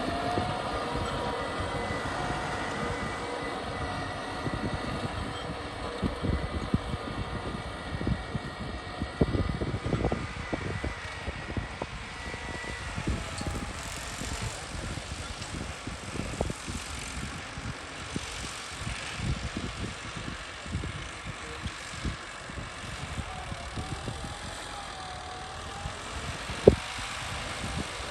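A vehicle running steadily, with irregular knocks and rattles and a sharp click near the end.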